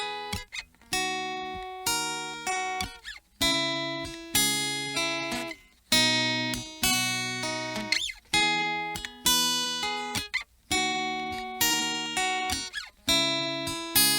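Acoustic guitar strumming chords in a steady rhythm, each chord struck and left to ring out before the next, as an instrumental introduction.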